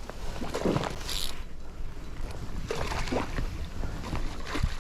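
River water rushing around a small inflatable raft, with a steady low rumble and a few brief swishes as the angler handles the boat while playing a fish.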